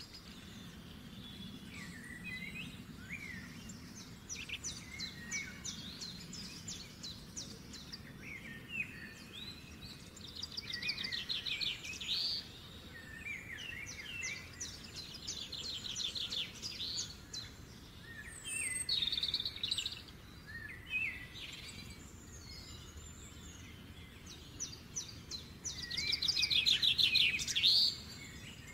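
Several birds chirping and singing, with rapid trills that come again and again and the loudest one near the end, over a steady low background hiss.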